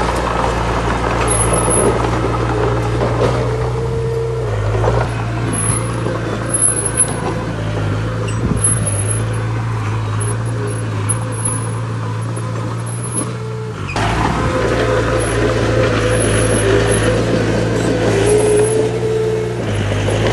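Heavy diesel construction machinery running steadily, with its engine note shifting a few times, and short high-pitched squeaks recurring throughout.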